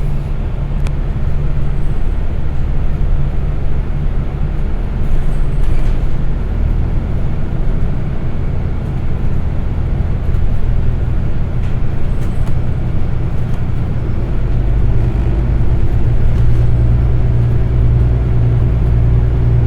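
City transit bus running down the road, heard from on board: a steady low engine drone over road noise, which grows louder about three-quarters of the way through.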